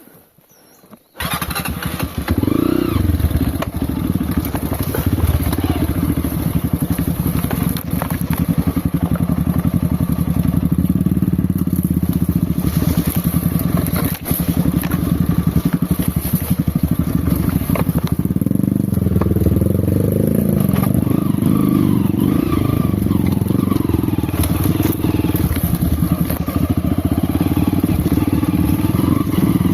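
Off-road motorcycle engine running steadily under throttle, its pitch rising and falling with the throttle about two-thirds of the way through. It comes in abruptly after about a second of near silence.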